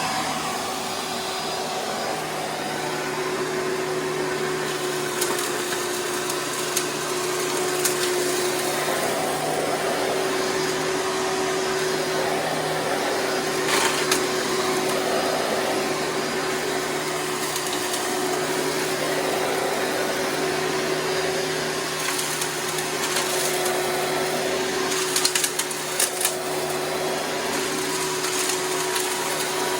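Hoover Preferred direct-air upright vacuum running steadily with a constant motor hum, broken a few times by brief clicks as debris such as bird seed is sucked up.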